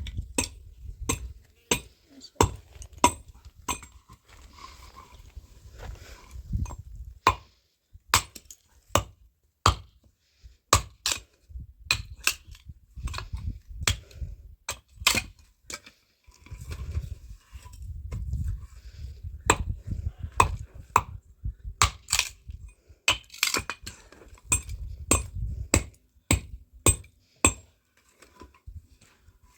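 Irregular sharp knocks and cracks of tools striking wood, one or two a second, with stretches of low rumble between them.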